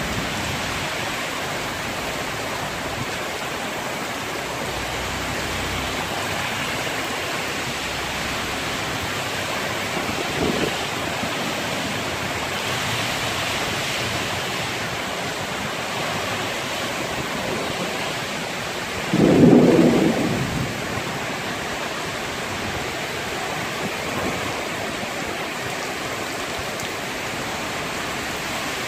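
Heavy rain pouring in a steady hiss, driven by gusting wind that tosses the trees. A brief, louder low burst comes about two-thirds of the way through.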